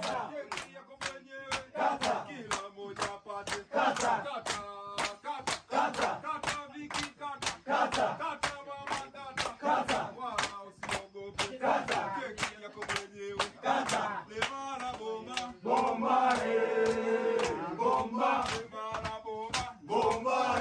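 A group of voices chanting and singing in Swahili over a fast, steady percussive beat. The sung notes grow stronger and longer about three-quarters of the way through.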